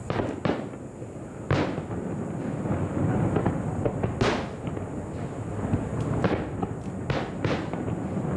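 Aerial fireworks shells bursting: a run of sharp bangs, the loudest about four seconds in, over steady crackling and low rumbling.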